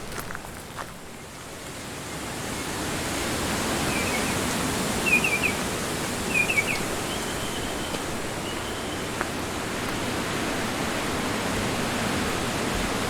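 Strong wind rushing through the woodland trees, swelling about a second and a half in and then blowing steadily. The wind-muffed microphone picks up little or no wind buffeting. A few short high chirps cut through midway.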